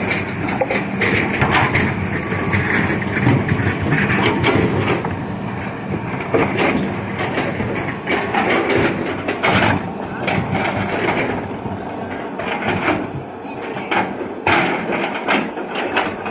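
Excavator diesel engine running steadily under repeated sharp knocks and clatter, typical of rock being scooped and loaded.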